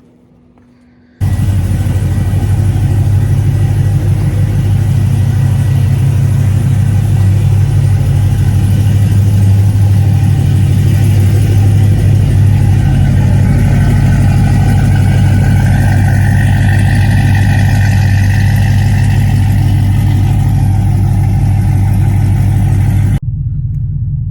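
Cadillac CTS-V's supercharged 6.2-litre V8 running steadily at idle through a new 3-inch exhaust with a Flowmaster muffler, a loud, deep, even exhaust note. It cuts in about a second in and drops a little in level near the end.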